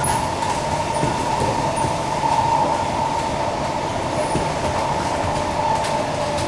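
Kawasaki-CSR Sifang C151B MRT train running between stations, heard from inside the carriage: a steady rumble of wheels on rail with a continuous mid-pitched whine.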